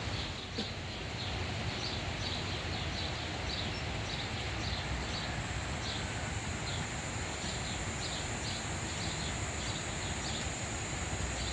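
Outdoor ambience: a steady hiss with short high chirps repeating a few times a second and a thin, steady high whine.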